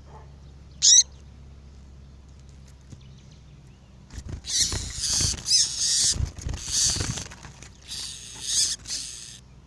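Double-collared seedeaters (coleiro), a female with a male: one sharp high chirp about a second in, then from about four seconds a run of harsh, scratchy twittering calls in quick bursts. A low steady hum runs underneath.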